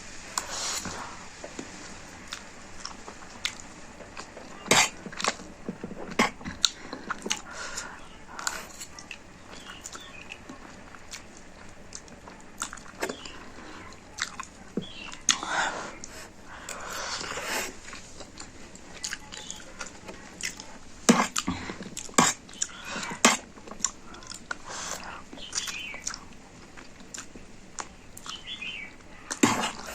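A person eating instant noodles close to the microphone: wet chewing and mouth smacks, many short clicks scattered irregularly, with a few longer noisy stretches of about a second.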